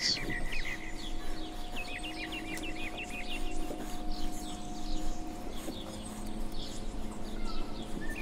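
Songbirds chirping and singing, one bird repeating a quick run of about eight short notes around two to three seconds in, over a faint steady hum.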